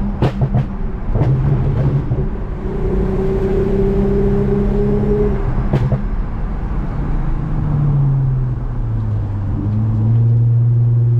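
Toyota Mark X V6 with a modified exhaust running with a steady drone; its pitch drops about eight seconds in and settles lower. A few sharp clicks come near the start and once more about six seconds in.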